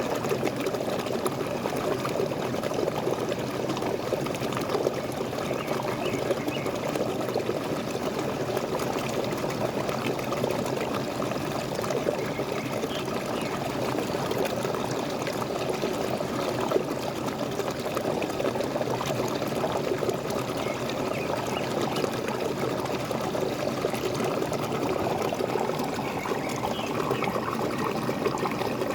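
Waterfall: water pouring and splashing steadily, with no let-up.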